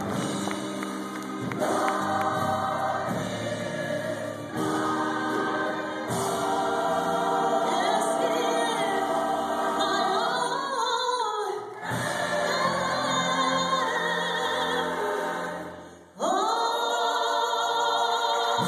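A gospel choir singing, with long held notes. The sound drops away briefly about sixteen seconds in, then the voices come back in together, sliding up into the note.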